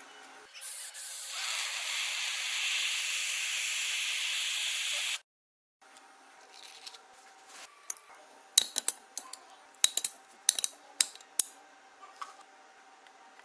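A steady hissing spray lasting about four and a half seconds that stops abruptly. This is followed by low room noise with a run of sharp clicks and taps.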